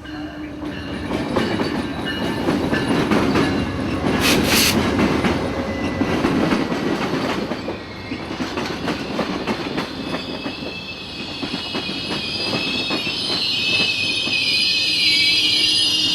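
A train rolling by on steel rails, its wheels clicking over the rail joints. A high, wavering wheel squeal joins in after about ten seconds.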